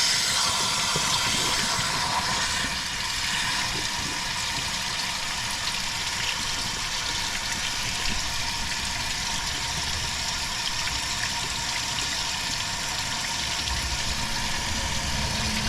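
Water rushing steadily as it is flushed through a truck's cooling system and pours out, a little louder for the first couple of seconds.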